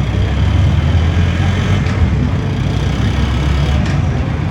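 Honda Motra 50cc engine running on a chassis dyno, a low steady rumble that eases off near the end, with two faint clicks.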